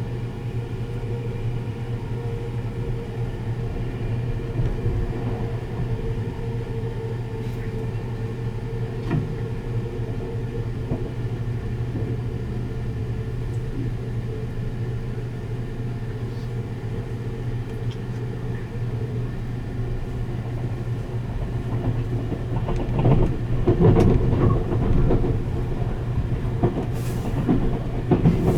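285-series Sunrise Express sleeper train running, heard from inside the car: a steady low hum and rumble. About three quarters of the way in, the running noise grows louder and rougher.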